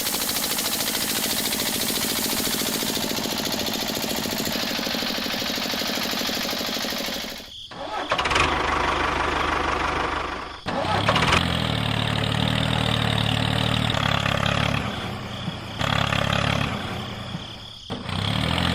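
A small motor whirring steadily, then cutting out and starting again several times.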